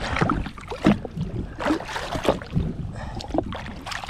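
Sea water splashing and sloshing in irregular strokes at the side of a jet ski, as a mulloway is held in the water for release.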